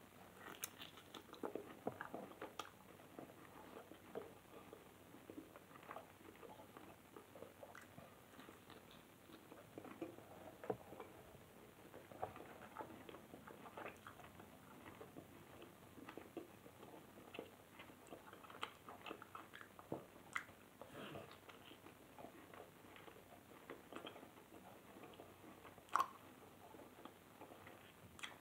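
A person biting into and chewing a piece of steak: faint, irregular chewing clicks throughout, with one sharper click near the end.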